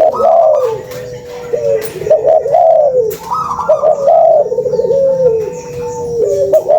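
Spotted doves (tekukur) cooing, several rolling coo phrases overlapping one after another; this is a lure recording played to set other doves calling. A faint steady tone runs underneath.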